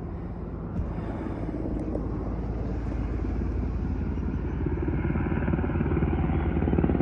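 Helicopter approaching, a steady low, pulsing rotor and engine sound that grows slowly louder.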